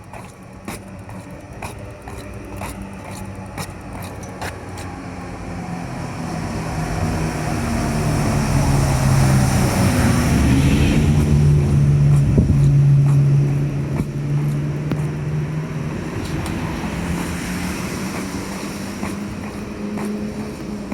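A motor vehicle's engine and tyres approaching slowly, passing close at about ten to thirteen seconds in, and fading away again, with a steady low engine hum throughout.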